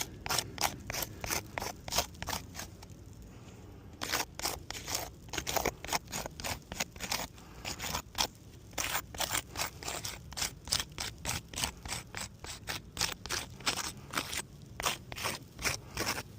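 Asphalt roof shingles scraping and crunching in quick repeated strokes, about two to three a second, with a short pause about two and a half seconds in, as a shingle repair is attempted. The shingles are worn and brittle, creasing and shedding granules, and the repair attempt fails.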